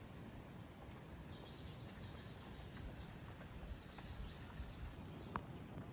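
Faint outdoor forest ambience: a steady low hiss with short, high chirping calls repeating in groups, and a single sharp click near the end.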